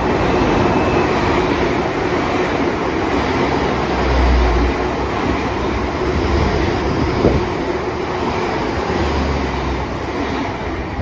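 A train running past on the line: a steady, loud rumble and rush of wheels on rail.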